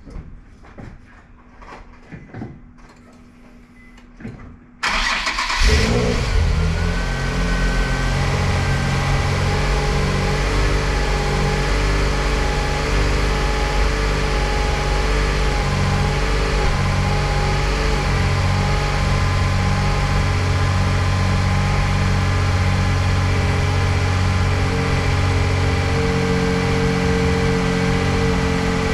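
Nissan 350Z Nismo's V6 engine started about five seconds in: it catches at once with a brief flare, then settles into a steady idle. Before the start there are only a few faint clicks.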